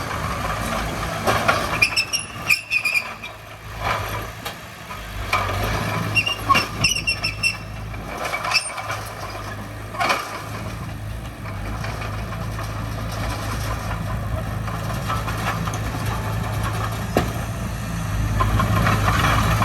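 Diesel engine of heavy construction equipment running steadily, with short high squeals and metallic clanks twice, a knock about ten seconds in, and the engine growing louder near the end.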